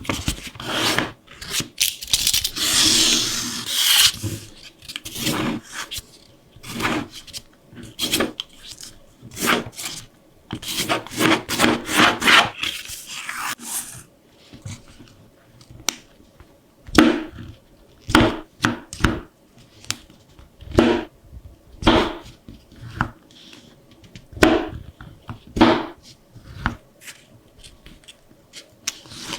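Paper being handled, rubbed and creased while a paper book is made: irregular rubbing and scraping strokes, dense and overlapping for about the first half, then separate single strokes about once a second.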